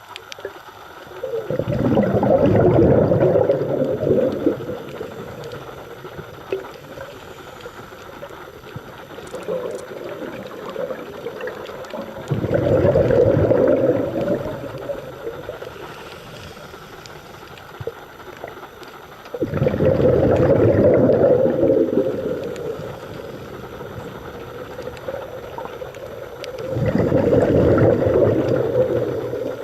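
Scuba diver's exhaled bubbles gurgling out of the regulator underwater: four exhalations, each two to three seconds long, about seven seconds apart, with quieter underwater hiss and small clicks between them.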